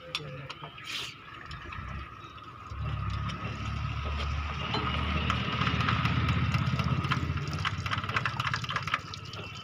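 An engine running, its low rumble swelling about three seconds in and easing off near the end, over a steady high whine.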